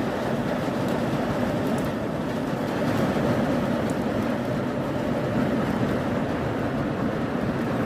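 Rain and hail falling hard: a steady, dense patter with a few sharp ticks of hailstones.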